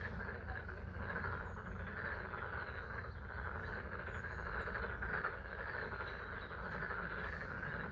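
A dense chorus of many frogs calling at a pond, a steady mass of rapid croaks with no gaps, over a steady low rumble.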